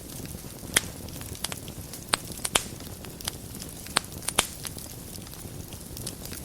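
Wood fire burning in a fireplace: a steady low rush of flames with sharp, irregular crackles and pops, the loudest few scattered through the middle.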